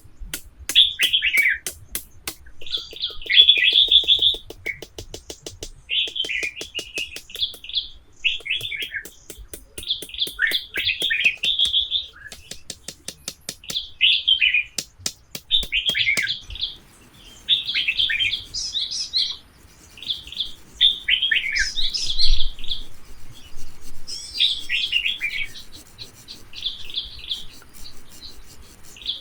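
Forest birds chirping and calling in short, repeated phrases, with a run of quick clicks through the first half.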